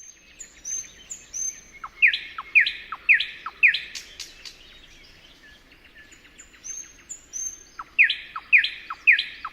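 A songbird singing two songs: each opens with a few thin high notes and then runs into four loud repeated phrases about two a second, with a short pause between the songs around the middle.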